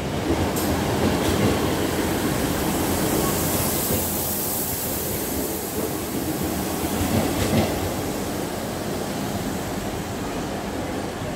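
East Midlands Railway Class 156 and Class 158 diesel multiple units, coupled as one four-car train, rolling past and away: the underfloor diesel engines run and the wheels rumble on the rails, with a few faint clicks. The sound fades slowly as the train draws off.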